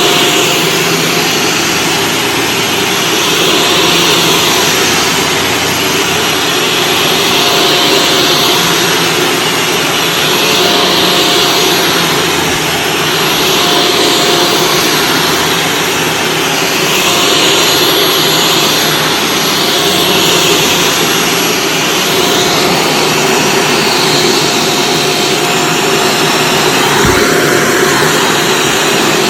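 Shark Stratos vacuum cleaner running on carpet, pushed back and forth, its whine swelling and dipping about every three to four seconds with each stroke.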